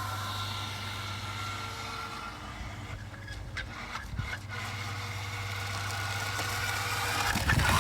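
Radio-controlled jet boat running, a steady motor hum with a higher whine over it. It eases off a little around the middle and grows louder again near the end in a short burst of noise.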